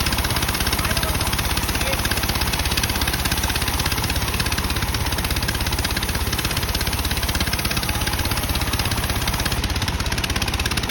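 Sawmill bandsaw machinery running steadily: a continuous mechanical drone with a fast, even pulse.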